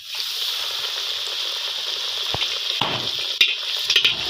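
Naan half coated in a potato and gram-flour mixture sizzling in hot ghee in a kadhai: a steady frying hiss that starts suddenly as it goes into the oil, with a few sharp clicks in the second half.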